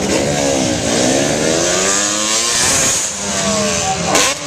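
Dirt bike engine revving, its pitch dropping, climbing again and then dropping. A brief loud rush of noise comes near the end.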